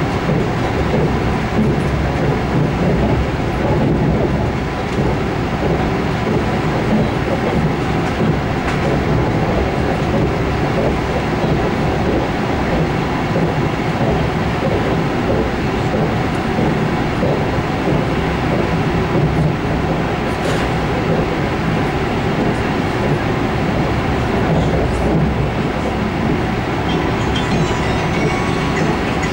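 Steady running noise of a moving train heard from inside the carriage: an even rumble of wheels on the rails, with a few faint ticks.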